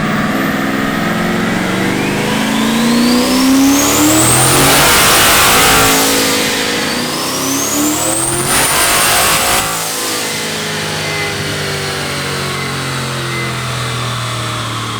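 Turbocharged 5.0 Coyote V8 of a single-turbo Ford F-150 at full throttle. The engine pulls up in two runs, each with a turbo whine climbing to a high pitch. The throttle closes about ten seconds in, and the engine drops back to a steady low running.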